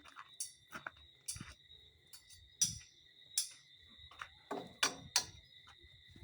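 Steady high-pitched drone of night insects, with irregular sharp clicks and knocks of things being handled, a few louder taps near the middle and a quick cluster of knocks in the second half.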